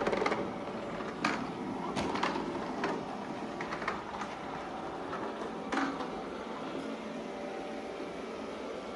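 Shark Ion Robot RV750NL robot vacuum running, a steady motor-and-brush hum, with a few short knocks in the first six seconds before it settles to an even hum.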